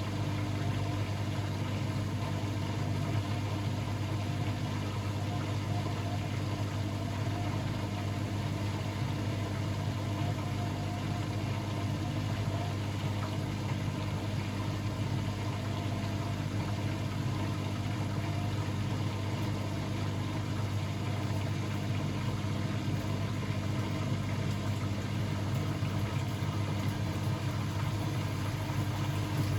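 Blomberg WAF 7442 SL washing machine running with a steady, even low hum.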